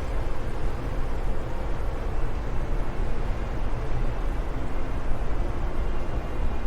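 Steady wind, a deep rushing rumble with little hiss, and faint short whistling tones here and there.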